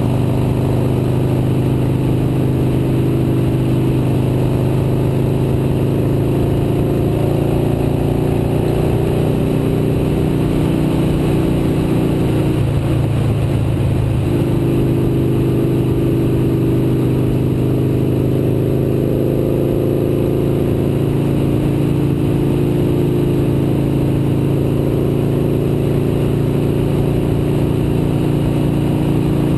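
Motorcycle engine running at a steady pitch while riding, with a brief break in the engine note about halfway through.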